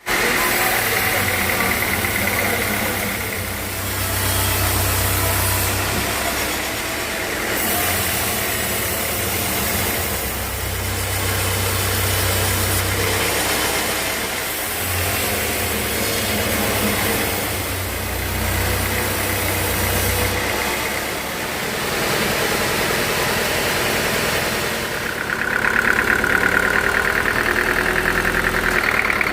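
Sawmill machinery running, its low engine drone swelling and easing every few seconds, with a higher steady whine joining near the end.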